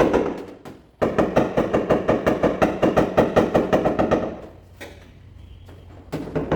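Rapid, even tapping on a car hood's sheet metal, several light strikes a second: a paintless dent repair knockdown tool tapping down hail-dent high spots. The tapping fades, starts again about a second in, and stops about four seconds in, with a couple of single taps after that.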